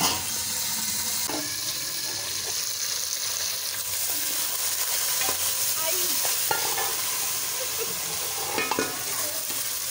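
Green peas, green chillies and ginger-garlic sizzling steadily in hot oil over browned onions in a pot, stirred with a wooden spoon.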